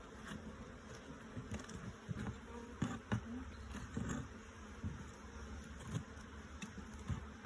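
Honey bees buzzing steadily around an open hive, with scattered short knocks and taps throughout.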